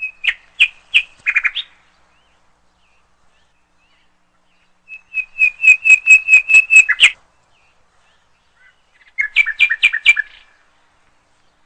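A bird singing three short phrases of quick, repeated chirping notes, about five or six a second; the middle phrase is the longest and loudest.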